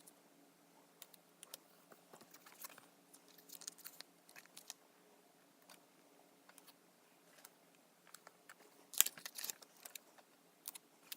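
Washi tape and paper being handled on a planner page: scattered light clicks, taps and crinkles, with a louder burst of crinkling about nine seconds in.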